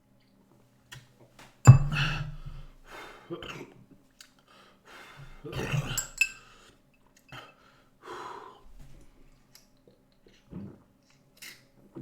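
A person chugging beer: sharp breaths and gulping noises between drinks, with a few clinks of the drink being handled and set down, the loudest sounds about 2 and 6 seconds in.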